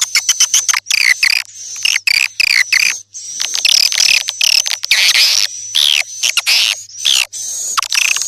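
Swiftlet call-lure recording: rapid chittering and buzzy, clicking chirps of swiftlets, some sliding down in pitch, over a steady high whistle. It is the kind of call track played to attract swiftlets to a nesting house.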